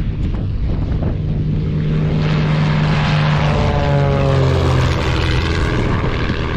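Propeller airplane passing close by. Its engine noise swells about two seconds in and is loudest near the middle, and its pitch drops steadily as it goes past.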